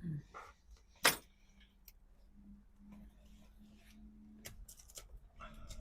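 A single sharp click or knock about a second in, then a low steady hum with light clicks and rustling of handling near the end.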